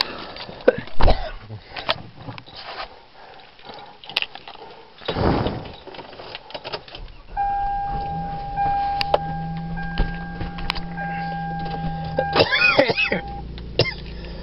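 Car sounds: knocks and clicks, then a steady electronic tone for about six seconds with a low motor hum under it for about four seconds, like a power window running.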